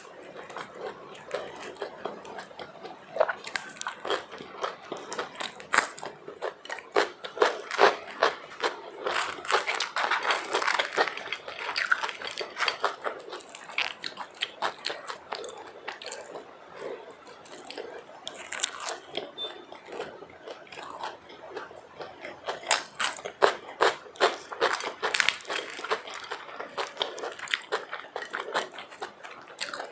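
Close-miked eating: a person biting and chewing food, with many irregular sharp, crackly mouth clicks, busiest about a quarter of the way in and again past the middle.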